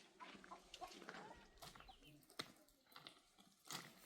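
Faint farmyard ambience: scattered small chirps and animal sounds, a sharp click about two and a half seconds in, and a short louder noise near the end.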